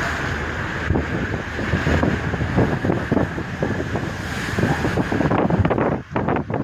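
Strong wind buffeting a phone's microphone in gusts, over the rush of a rough sea; the wind drops briefly near the end.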